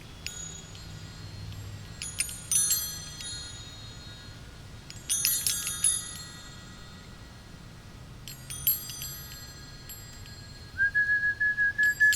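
Wind chimes ringing in three jingling clusters a few seconds apart, each a shimmer of many high tones fading away. Near the end a single high whistled note starts and holds steady with a rapid fluttering pulse.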